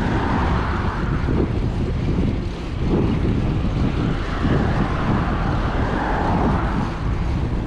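Wind buffeting the microphone of a camera on a moving mountain bike: a dense, steady low rumble.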